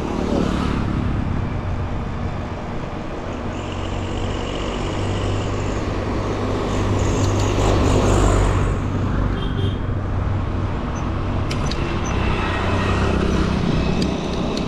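Wind rumbling on the microphone of a bicycle coasting downhill, mixed with road traffic; the traffic noise swells and fades about eight seconds in as a vehicle goes by.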